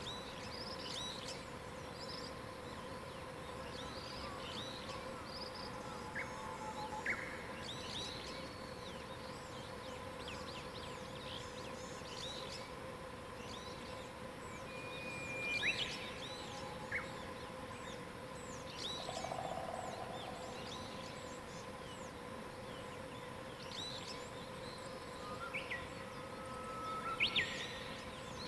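Mixed dawn chorus of small songbirds: many short chirps and quick calls scattered throughout, some louder near the middle and the end, over a faint steady hum.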